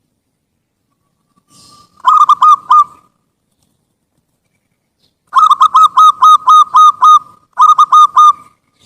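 Zebra dove (perkutut) cooing in three phrases of quick, hooked notes. A short phrase of about four notes comes about two seconds in, a longer phrase of about nine notes comes past the middle, and a short phrase of about four notes comes near the end.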